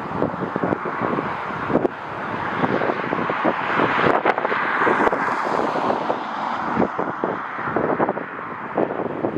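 Jet airliner noise swelling to a peak about four to five seconds in and then fading, as on a landing pass, with gusty wind buffeting the microphone throughout.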